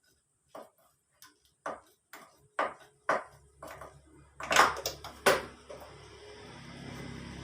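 Metal engine parts and tools clinking and knocking as they are handled, about two sharp knocks a second, the loudest two near the middle. About halfway through, a steady low hum starts and grows a little louder.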